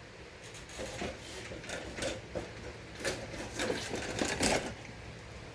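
Salvaged electric wheelchair drive motors whirring in short, uneven bursts as the remote-controlled lawnmower is driven and steered with its gas engine off; the bursts grow louder about four seconds in.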